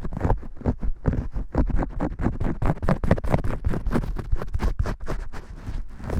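Vigorous shampoo-style scratching and rubbing: quick, irregular strokes, several a second, like fingers working lather into hair.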